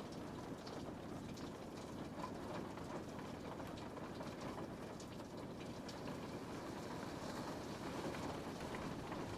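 Steady rain on a window pane: an even wash of rainfall with scattered light drop ticks against the glass.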